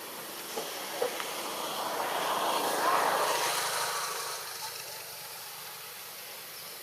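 A vehicle passing by: a rushing noise that swells to a peak about three seconds in, then fades away, with a couple of small clicks before it.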